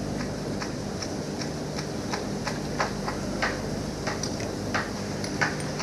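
Irregular sharp metallic clicks and taps, a few a second, from hand tools working on a diesel engine's fuel injectors, over a steady low hum.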